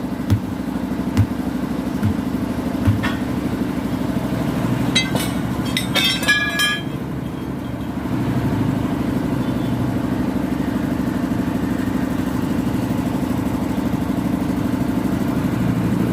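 An engine idles steadily throughout while tools work on a tubeless truck tyre. There are dull knocks about once a second over the first three seconds, then a clatter of metal clanks with a brief ring around five to seven seconds in.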